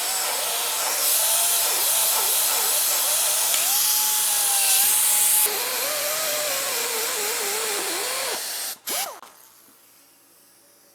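Angle grinder with a cutting disc cutting through the rusted steel of a pickup chassis rail. The motor pitch wavers up and down as the disc loads and frees in the cut. It stops about eight seconds in, gives one short burst just after, and then falls quiet.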